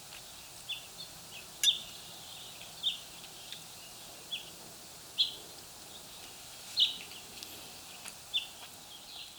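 A small bird chirping over and over, short high chirps roughly once a second, over faint steady outdoor background noise with a couple of brief clicks.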